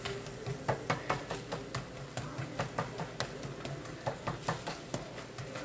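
Glutinous rice flour pancake frying in olive oil in a nonstick pan: irregular crackles and pops, a few a second, over a faint sizzle.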